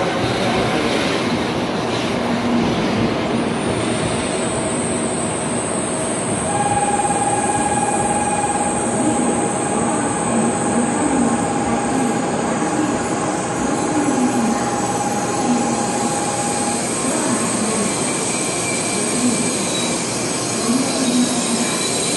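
N700A Shinkansen train rolling slowly along the platform as it brakes to a stop, with a steady running noise. A thin high whine comes in a few seconds in and holds, and a steady mid-pitched tone sounds for about ten seconds in the middle.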